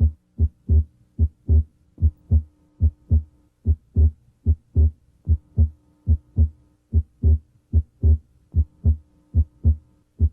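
Heart sounds through a stethoscope's diaphragm at the left sternal border: a regular lub-dub of first and second heart sounds, about 75 beats a minute. The second sound is split, a split that widens and narrows with deep breathing and that is called abnormally wide for this patient.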